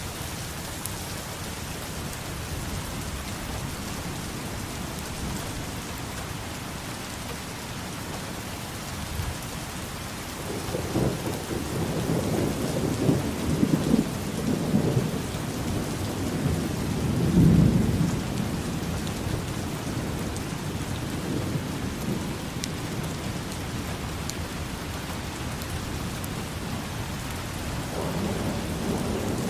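Steady rain falling, with a long roll of thunder that builds about ten seconds in, peaks twice, and fades out a few seconds later; a fainter rumble comes near the end.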